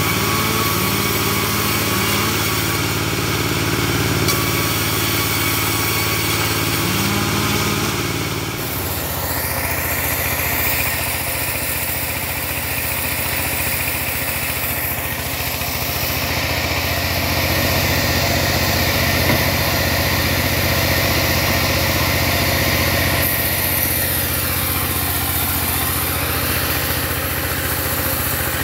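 Portable bandsaw sawmill running, a loud steady machine drone. Its tone changes about eight seconds in, and the pitch dips and recovers briefly near the end.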